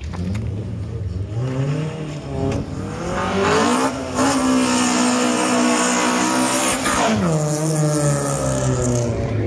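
Car engine revving up over about two seconds and held at high revs for about three and a half seconds with a harsh hiss over it, then dropping back to a low idle about seven seconds in.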